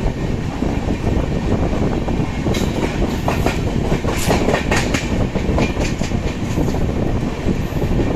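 Passenger train running at speed, a steady rumble of wheels on the rails. A run of sharp clacks, the wheels going over rail joints, comes from about two and a half to five and a half seconds in.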